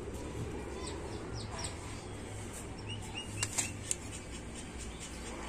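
Short, faint bird chirps over a steady low hum, with two sharp clicks about three and a half seconds in.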